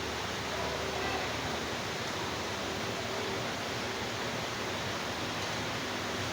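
Steady, even hiss of background noise with no speech.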